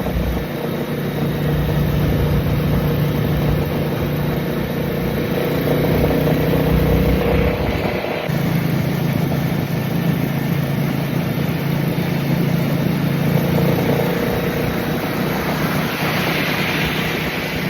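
Road traffic: a motor vehicle engine running steadily under a wash of road noise, its hum shifting in pitch about halfway through.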